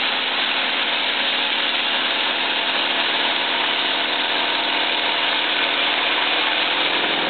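Mobile Dimension sawmill's inserted-tooth circular blade cutting cedar, driven by a Volkswagen 1600 air-cooled engine, with a steady, dense cutting noise over the engine's hum.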